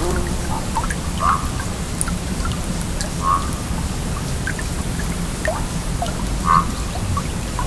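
A stream flowing steadily, with short gurgling water sounds a few times, about every one to three seconds, and small scattered drips.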